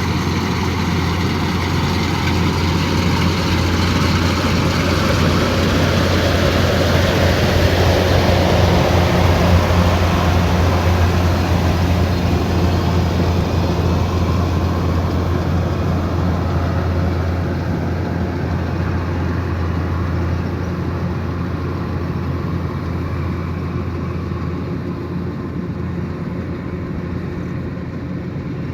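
Kubota DC108X combine harvester running while harvesting rice: a steady low engine drone over broad mechanical noise. It swells to a peak about ten seconds in, then slowly fades.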